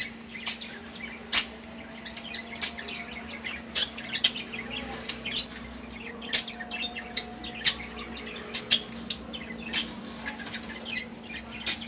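Aviary cage birds, budgerigars among them, giving many short, sharp chirps scattered throughout, with some wing flutters, over a steady low hum.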